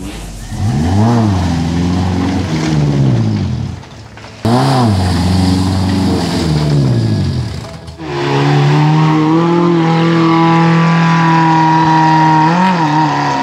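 Suzuki Katana (Jimny) 4x4's small four-cylinder petrol engine revving hard in two rising-and-falling surges as it fights through deep mud, then held at high, steady revs from about eight seconds in while the wheels churn.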